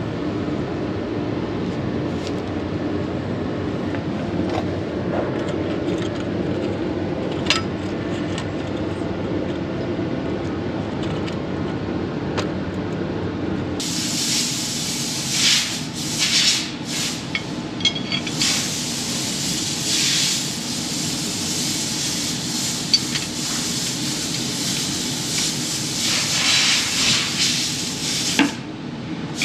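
A steady low hum with a few light clicks. About halfway through, a loud hissing spray starts and comes in repeated bursts until near the end.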